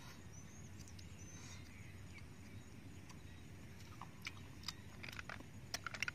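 Eating cooked snails: short wet clicks and smacks of chewing and of shells being handled, in a loose cluster from about four seconds in that grows busier near the end. A few faint bird chirps sound in the first two seconds.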